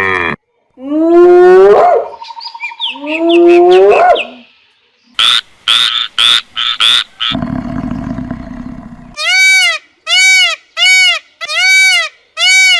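A run of different animal calls, one after another: two long rising calls, then a quick series of short sharp calls, then honking calls repeated evenly about once a second, like a goose.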